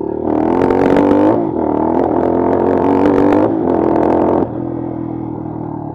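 Bashan Brozz 250 dual-sport motorcycle engine running hard on the throttle, its pitch rising and falling, then dropping back to a quieter, steady lower note about four and a half seconds in.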